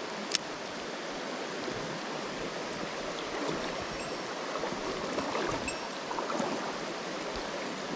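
Mountain stream water rushing steadily over rocks, with one short sharp click about a third of a second in.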